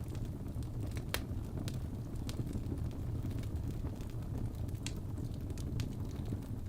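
Wood fire burning in a fireplace, crackling with sharp scattered pops over a steady low rumble. The loudest pop comes about a second in.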